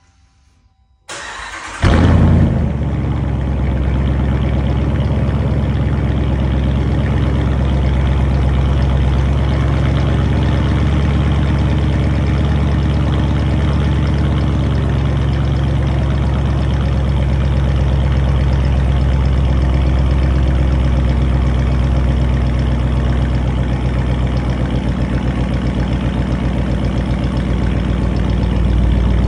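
2021 Dodge Durango's Hemi V8 starting with its mid muffler and resonators deleted: the starter cranks briefly about a second in, the engine catches with a loud flare, then settles into a steady, loud idle. Heard inside a shop building, which makes it louder.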